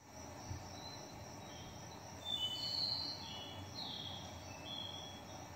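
Faint birdsong over quiet room hiss: short high whistled notes at several pitches, strongest a little past two seconds in.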